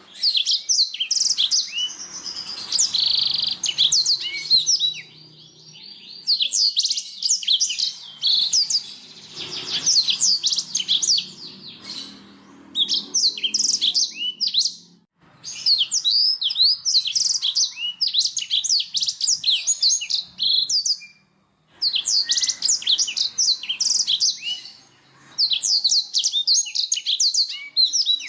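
Domestic canary singing: long phrases of rapid, repeated chirps and trills, broken by a few short pauses.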